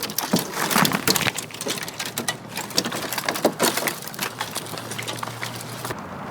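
Twigs and leaves crackling and snapping in a dense, irregular run as the kayak pushes into a tree's branches to free a snagged lure; the crackling cuts off about six seconds in.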